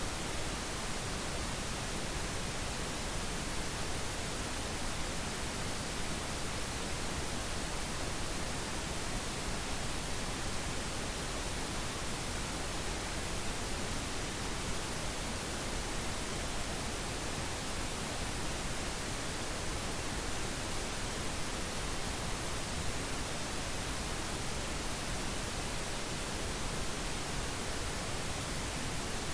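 Steady synthetic pink noise: an even, unchanging hiss spread across the whole range, with no events or changes.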